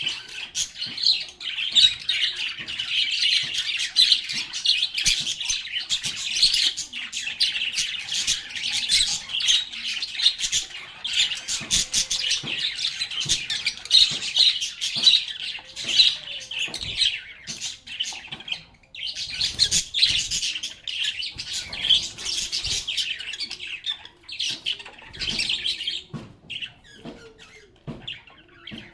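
A flock of lovebirds chattering: dense, overlapping high-pitched chirps, with a short lull about two-thirds of the way in and sparser calls near the end.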